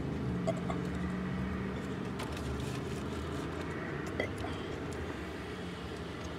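Steady low hum of an idling car, heard from inside the cabin, with scattered small clicks from someone eating a sandwich and handling its wrapper.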